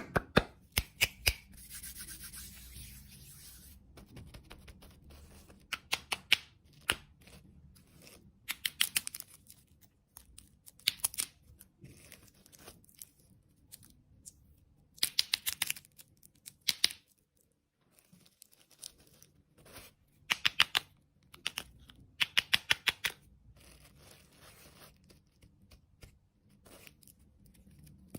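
Rustling and crackling from something being handled, in short bursts of rapid clicks several seconds apart, with faint rubbing between them.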